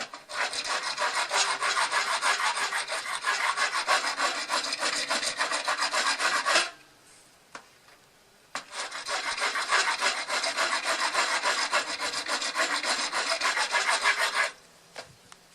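Hand rasp filing down the outside of a PVC pipe cap, rapid back-and-forth scraping strokes to reduce its diameter. There are two long spells of filing with a pause of about two seconds between them.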